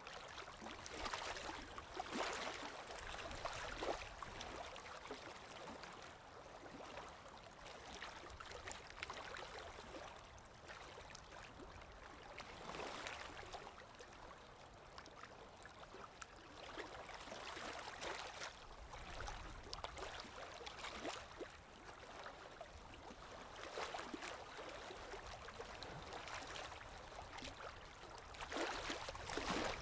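Running water of a stream or small cascade babbling and splashing, swelling and easing in irregular surges.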